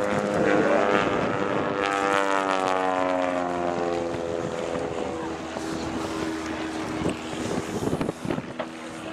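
Propeller engine of a Van's RV-8 light aircraft flying past, its note dropping in pitch as it goes by, then running on at a steady lower note as it draws away.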